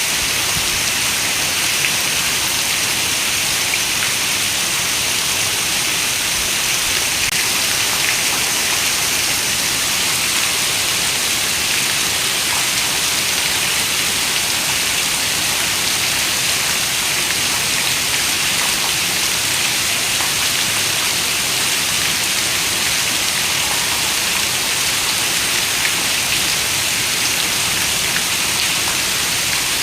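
Heavy rain falling steadily: a dense, even hiss with faint ticks of single drops.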